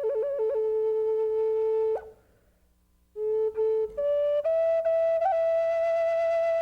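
Solo flute playing a slow melody: a quick trill on the opening note, then long held notes, a break of about a second just after two seconds in, and more long held notes.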